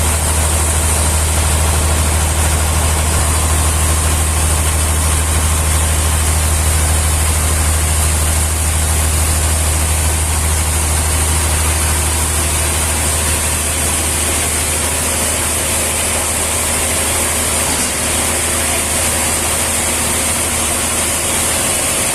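A heavy engine running steadily at an even pace: a deep, constant low drone with a steady hiss above it.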